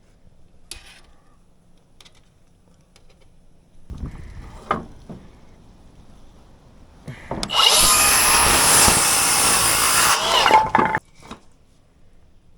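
A power tool runs in one loud burst of about two and a half seconds, starting about seven and a half seconds in and stopping abruptly. A few lighter knocks come a few seconds before it.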